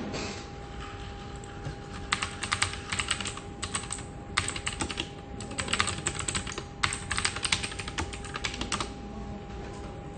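Computer keyboard typing: quick runs of keystrokes with short pauses between them, starting about two seconds in and stopping shortly before the end. A steady faint hum runs underneath.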